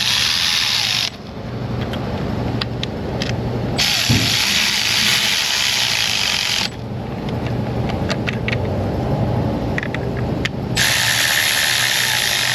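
Power tool running in three bursts, about one, three and two seconds long, starting and stopping sharply, with scattered light clicks between the bursts, as when fasteners are run in on a car.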